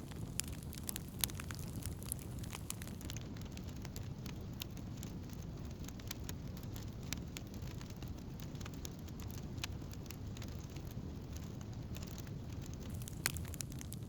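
Wood campfire crackling, with many small irregular pops and snaps over a steady low rush of burning.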